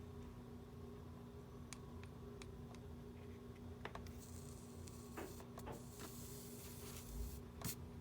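Faint scattered small clicks and taps of small-parts repair work, over a steady low electrical hum. A stretch of high hiss runs through the middle, and a sharper click comes near the end.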